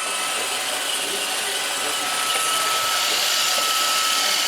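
iRobot Roomba 625 robot vacuum running: a steady whir with a constant high whine through it, growing slightly louder about two and a half seconds in.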